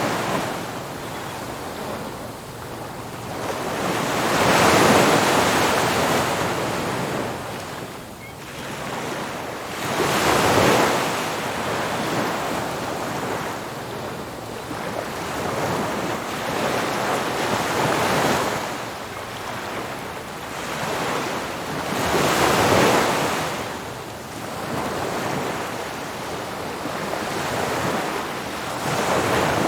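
Ocean surf breaking on a beach: a steady wash of water with a larger wave surging in every few seconds, about five in all.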